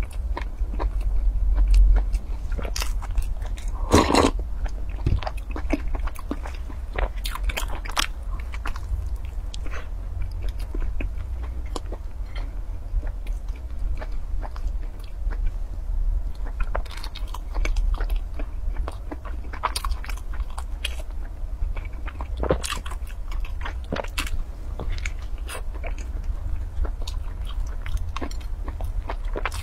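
Close-up eating sounds: a person biting and chewing a soft bun with a crispy crumb coating, with irregular small crunches and wet mouth clicks, the strongest about four seconds in. A steady low hum runs underneath.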